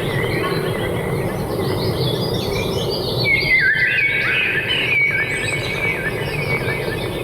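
Several birds chirping and twittering together, with many quick overlapping notes and short down-slurred calls, over a steady low background noise.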